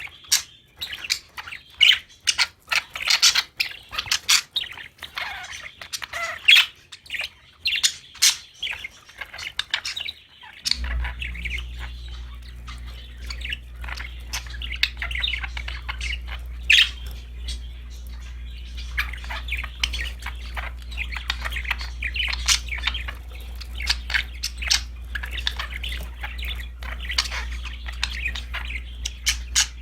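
Budgerigars chirping, chattering and squawking in quick, busy bursts. About a third of the way in, a steady low hum starts beneath the birds and runs on.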